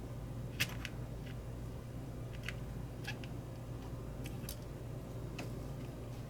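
Scattered light clicks and taps of small parts and tools being handled during a butane lighter repair, the sharpest about half a second in, over a steady low hum.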